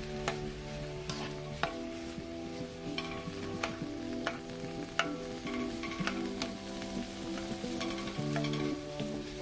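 Shrimp sizzling in oil in a nonstick wok, stirred with a spatula that clicks and scrapes against the pan at irregular moments. Soft background music with held notes plays underneath.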